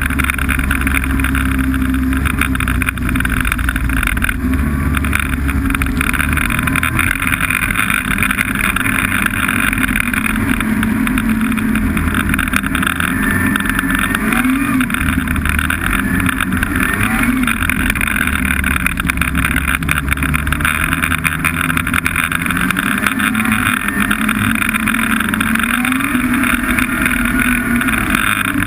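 Snowmobile engine running steadily under way, its pitch rising and falling briefly a few times.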